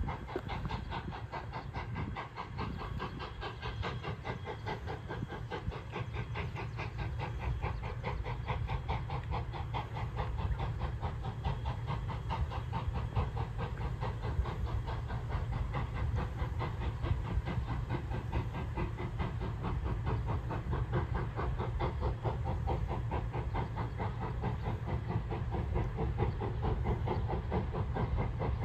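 Steam locomotive working, its exhaust chuffing in a rapid, even beat with steam hiss, growing slightly louder toward the end.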